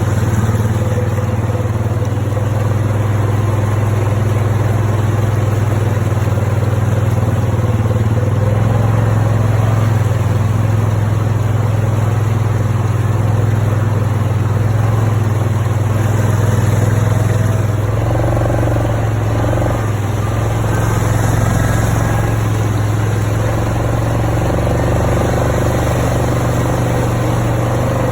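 A vehicle engine running steadily at an even speed, with a constant low hum.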